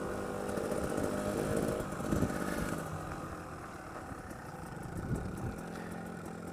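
Trail motorcycle engine running at low speed, its pitch dropping about two seconds in and picking up again near the end, picked up by a GoPro's internal mic in an open skeleton housing.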